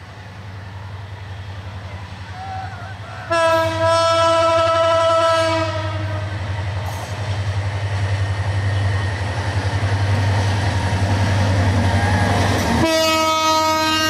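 Diesel locomotive passing with its engine rumbling and its coaches clattering over the rails. Its horn sounds twice: a blast of about two and a half seconds starting about three seconds in, and a second one starting near the end that is still going.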